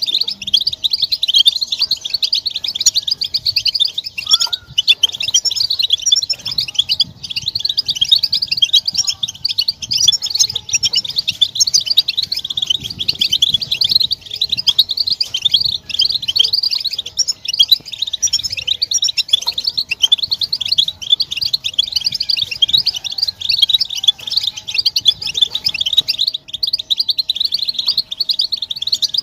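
European goldfinches twittering in a dense chorus of rapid, overlapping chirps without a break: the group chatter and mating calls used as a lure to stimulate male goldfinches to sing.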